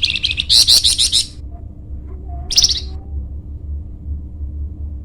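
Flamboyan songbird singing: a rapid, high trilled phrase lasting about a second and a half, then a short second phrase about two and a half seconds in, over a low steady hum.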